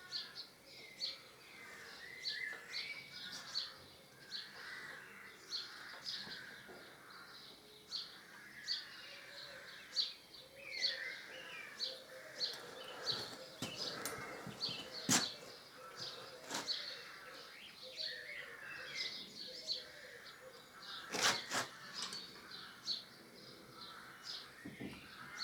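Birds chirping: a short high note repeated two or three times a second, with softer warbling birdsong beneath it. A few sharp clicks or knocks stand out, the loudest about fifteen and twenty-one seconds in.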